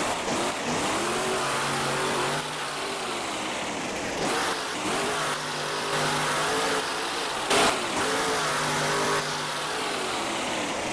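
A monster truck's engine revving up and falling back again and again, with one short, loud burst about seven and a half seconds in.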